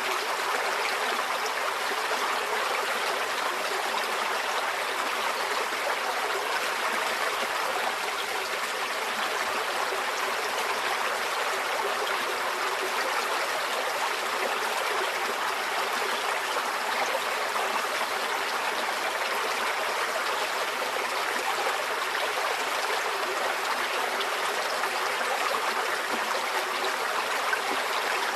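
Forest stream flowing steadily: an even rush and trickle of water over stones, with no lulls or changes.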